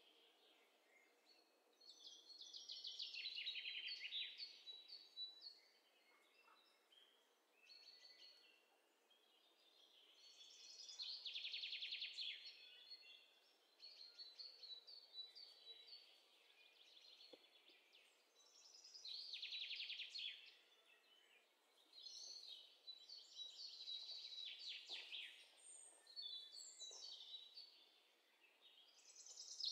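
Faint bird song: a small songbird sings bouts of rapid, high trilled phrases, a few seconds long, every several seconds, with quiet between them.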